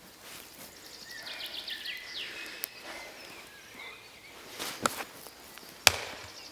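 Wood being chopped: two sharp strikes about a second apart near the end. Birds chirp in the background in the first half.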